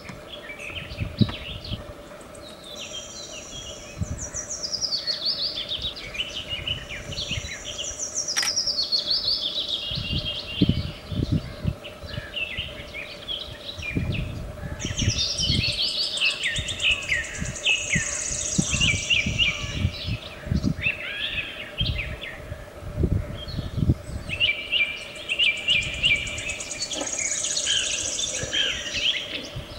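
Several small birds chirping and calling over one another in rapid, falling trills and tweets, with scattered low thumps underneath.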